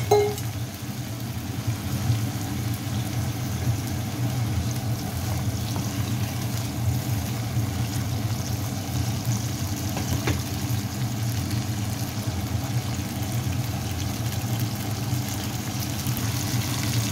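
Potato chunks frying in oil and spice paste in a non-stick pan: a steady sizzle over a constant low hum.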